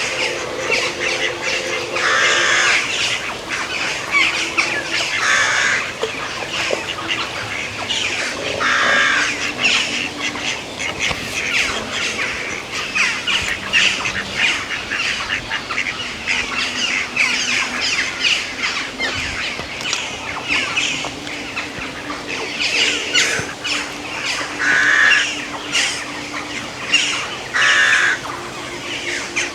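Many birds calling at once in a dense, unbroken chorus, with louder harsh squawks every few seconds.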